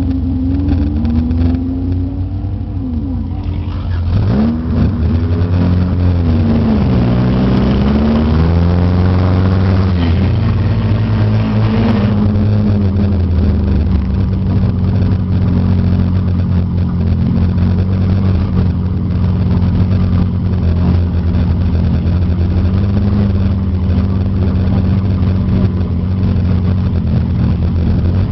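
Figure-eight race car's engine heard from inside the car. It runs low at first, then revs up and down from about four seconds in as the car pulls away and picks up speed, and from about twelve seconds on it holds a steady pitch.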